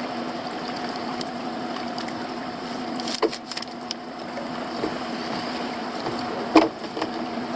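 Boat's outboard motor idling steadily, with a couple of sharp knocks on board, the louder one about six and a half seconds in.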